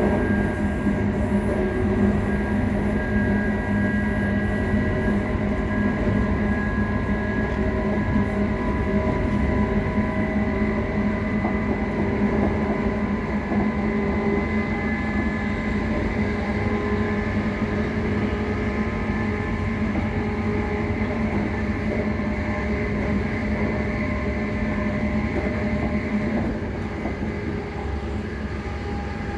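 ScotRail Class 334 electric multiple unit running, heard on board: a steady transformer hum of several held tones over continuous wheel and track rumble. It eases slightly near the end.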